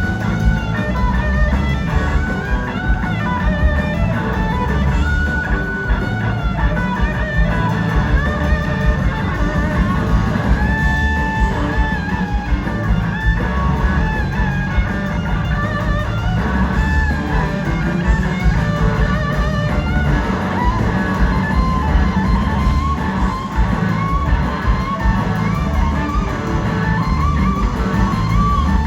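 Live rock band playing an instrumental passage, with an electric guitar lead whose notes bend and glide over the full band.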